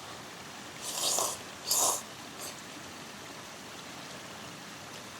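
Two short breathy mouth sounds of someone eating hot kimchi noodles, about a second apart, over a steady soft hiss.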